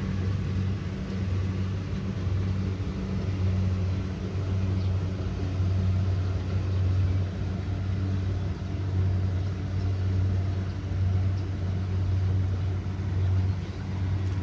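Kubota DC70 Pro combine harvester's diesel engine running steadily while harvesting, a low hum that swells and dips every second or two.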